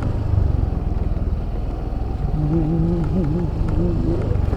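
Yamaha Fazzio scooter's engine running steadily under way, a dense low rumble, with a voice speaking briefly in the second half.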